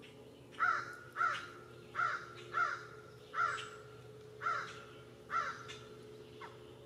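A bird calling in a series of seven loud, harsh caws, each falling in pitch, roughly two-thirds of a second to a second apart, with a fainter call near the end. A low steady hum runs underneath.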